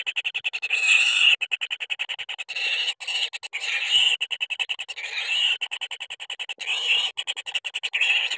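Kingfisher nestlings begging: fast, rapidly pulsed rattling trills, coming in runs about a second long that swell and ease over and over.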